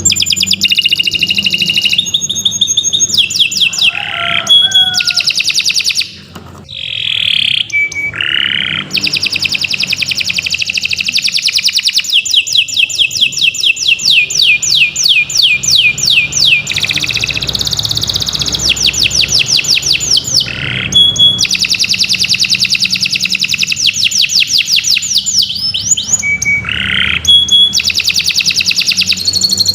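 Domestic canary singing a long, unbroken song of rapid trills: runs of fast repeated notes with a few gliding notes, and a brief lull about six seconds in.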